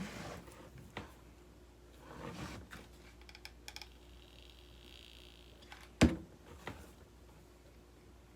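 Hands working on a hot-glue craft: soft rustling and handling noises with scattered small clicks, and one sharp loud click about six seconds in.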